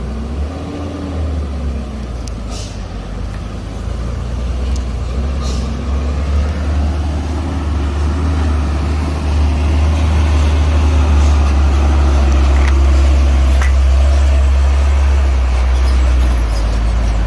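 Heavy truck engines labouring in low gear: a deep, steady rumble that grows louder over about the first ten seconds and then holds, with a few brief clicks over it.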